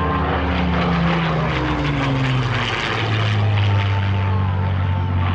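The de Havilland Mosquito's twin Rolls-Royce Merlin V12 engines going by on a flypast. The engine note drops in pitch over the first three seconds as it passes, then settles into a steady low drone.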